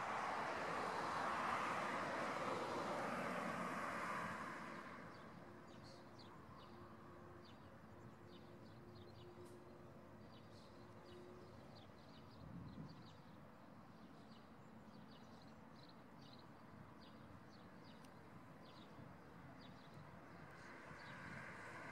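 Jet airliner noise fading away over the first four seconds or so. A quiet spell follows with many short, high chirps from birds or insects. Jet engine noise starts building again near the end.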